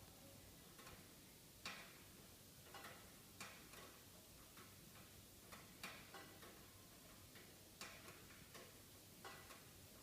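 Wood fire in a fireplace crackling faintly, with sharp irregular pops about once a second over a low hiss.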